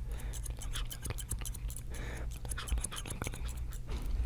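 Rapid, close-miked clicking and scratching, several small crisp clicks a second, over a steady low hum.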